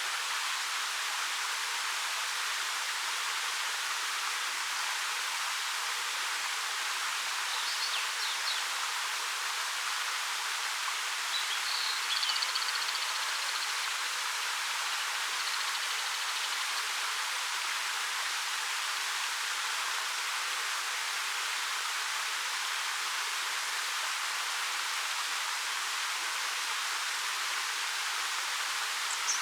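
Steady rush of a small waterfall, about 13 m high, pouring over rock, with little low rumble. A few faint bird chirps come through over the water: about 8 seconds in, a few more around 12 seconds, and near the end.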